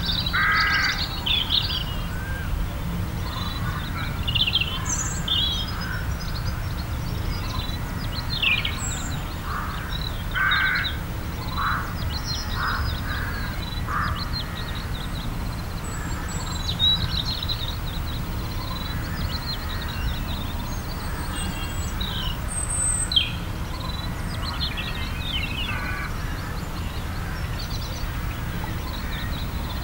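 Birds calling, in short scattered calls and chirps, over a steady low rumble.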